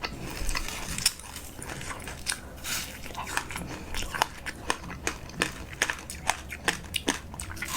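Close-up eating: a person biting and chewing food, a quick irregular run of short crunches and mouth clicks.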